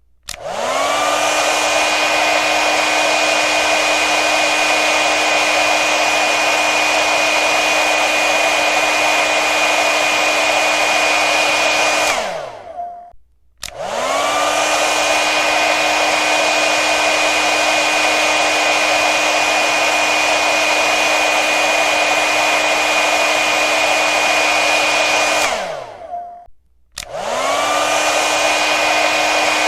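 Hair dryer running steadily, a rushing blow with a steady motor whine. About twelve seconds in it is switched off, the whine sliding down as the motor spins down; after a moment of silence it starts again, the whine rising back up to speed. The same off-and-on happens again about twenty-five seconds in.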